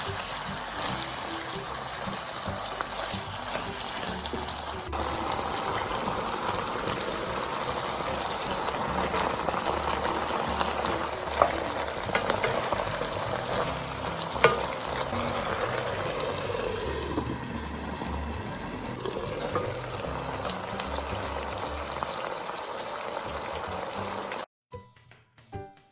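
Squid and shishito peppers sizzling steadily in a pan of soy-sauce seasoning while being stirred, with a few sharp utensil clicks against the pan. The sizzle cuts off suddenly about a second before the end, and light music follows.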